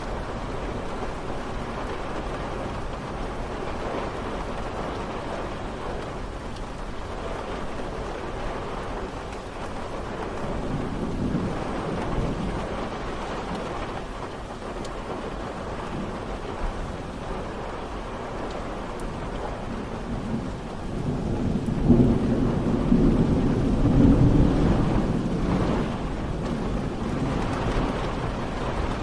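Steady rain falling, an even hiss throughout. About two-thirds of the way through, a low rumble of thunder swells up for a few seconds, then fades back under the rain.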